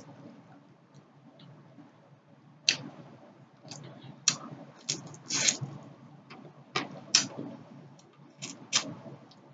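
Close-miked chewing of fried tilapia. Quiet, soft chewing at first, then from about three seconds in a run of about eight sharp, brief mouth clicks.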